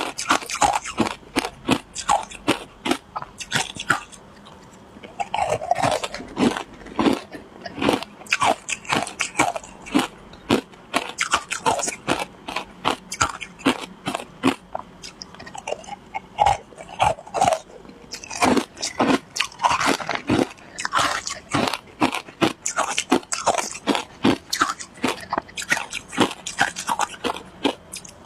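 A person biting and chewing shaved ice: quick crisp crunches, several a second, with a short lull about four seconds in.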